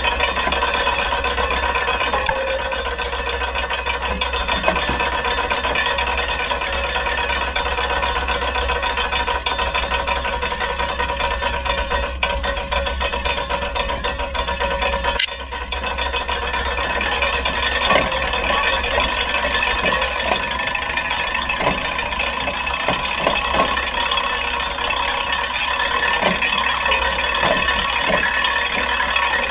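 Giant Momentum Latte bicycle's drivetrain running: a steady whir with fast, fine ticking and rattling, dipping briefly just past halfway.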